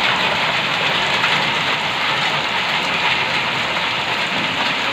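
Heavy rain mixed with hail pouring onto a wet yard, a dense, steady hiss.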